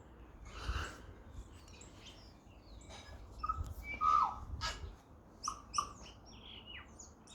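Tui singing: an irregular run of short clicks, brief whistles and wheezy notes.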